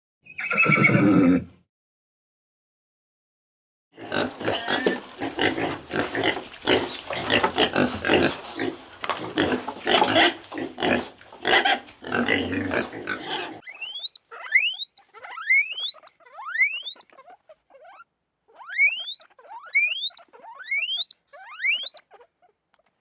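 Animal calls: a short call about half a second in, then about ten seconds of dense, rough grunting, then bursts of quick squeaks, each rising sharply in pitch, repeated in clusters to the end.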